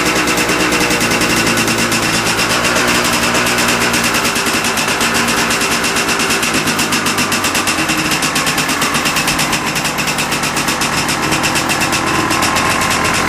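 Yamaha Tri-Z 250 three-wheeler's two-stroke single-cylinder engine running after a cold start, with a fast, even firing pulse; it sags briefly a little past halfway, then picks back up.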